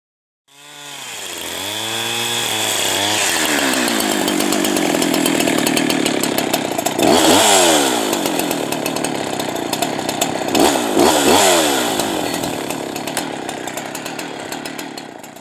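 Two-stroke Farmertec Holzfforma G372XP chainsaw, a Husqvarna 372 clone, revving up and running at high speed. About halfway through and again near the end its revs dip and climb back, then the sound tapers off.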